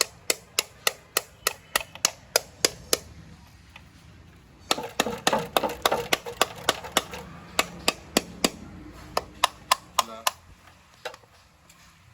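Sharp, evenly spaced knocks like hammer blows, about three a second, in two runs split by a pause of under two seconds. Under the start of the second run there is a rushing noise, and one last knock comes near the end.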